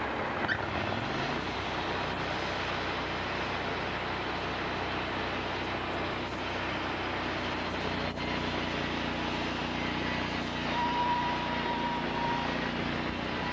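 Sawmill engine and machinery running steadily, speeding up briefly about half a second in and settling into a different steady note about two-thirds of the way through, with a thin high whine joining near the end.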